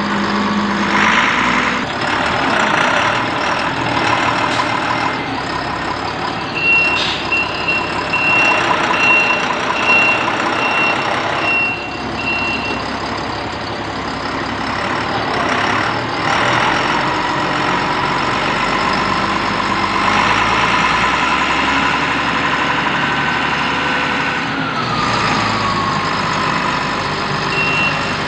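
Motor grader's Kirloskar 6R1080TA six-cylinder diesel engine running steadily. A reversing alarm beeps in a quick series about six seconds in for roughly six seconds, and starts again near the end.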